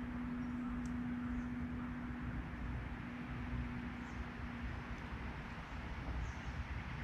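Outdoor background noise with a low rumble and a steady low hum that fades out about five seconds in, and three or four faint, short high chirps from small birds.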